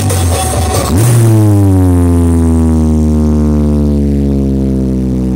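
Sound-horeg carnival sound system playing music. About a second in, the music gives way to a loud, sustained low buzzing bass tone that slides slowly down in pitch.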